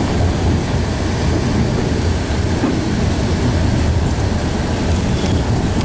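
Steady low rumble of an Alishan Forest Railway narrow-gauge passenger coach running along the track, heard from inside the coach, with the train pushed uphill by a diesel locomotive at the rear. A few faint clicks come near the end.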